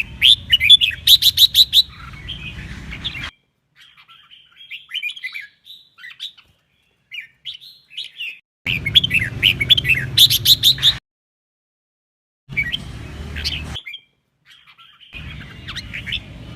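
Red-whiskered bulbul singing: quick, bright chirping phrases and rapid trills. The song comes in spliced stretches that start and cut off abruptly, with a low hum under the louder ones.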